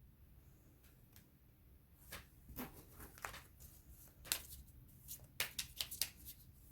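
A deck of oracle cards being shuffled by hand: a scatter of soft card clicks and snaps that starts about two seconds in and gets quicker in the last couple of seconds.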